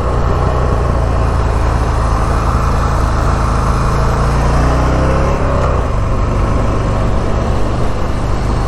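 Buell XB12S Lightning's big V-twin engine running under way on the track. Its pitch climbs through the middle and drops off abruptly about five and a half seconds in.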